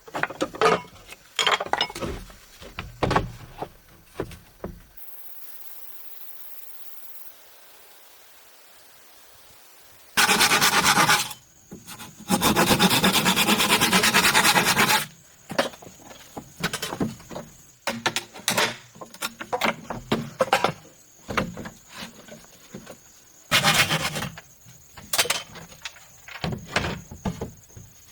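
Bamboo or wood being worked by hand: scattered scraping strokes, a pause, then two long spells of steady sawing or rasping, followed by more irregular strokes.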